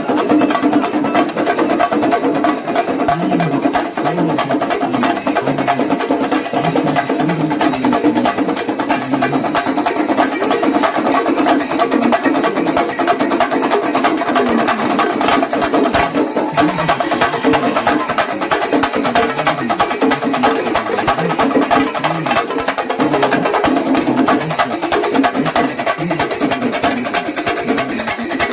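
Kerala temple percussion ensemble playing: chenda drums beaten in a dense, fast rhythm, with hand cymbals clashing along.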